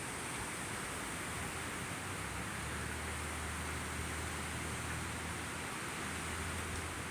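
Steady, even hiss of thunderstorm ambience, with a faint low hum underneath.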